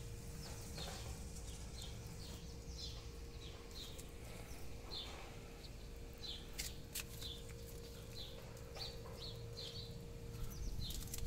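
Small birds chirping: many short, high, falling chirps repeating, over a faint steady hum, with a couple of sharp clicks about two-thirds of the way through.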